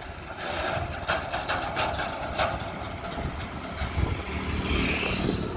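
Tractor diesel engine running steadily under load. A series of sharp knocks or rattles comes in the first half.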